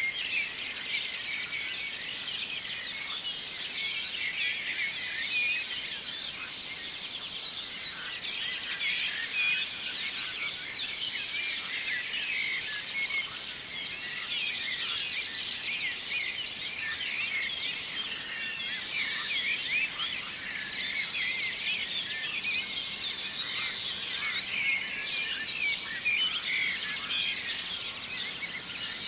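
Morning chorus of many songbirds singing at once: a dense, unbroken tangle of short high chirps and calls overlapping each other.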